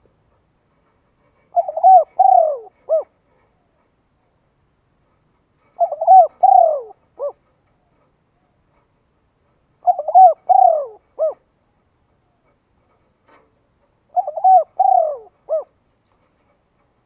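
A bird calling: a short phrase of several notes, repeated four times about four seconds apart.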